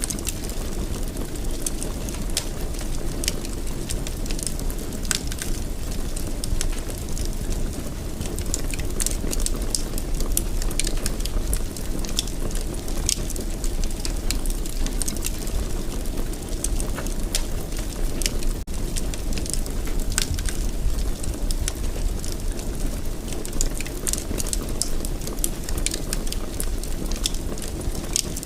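Fireplace fire burning, with a steady low rumble of flames and frequent sharp crackles and pops.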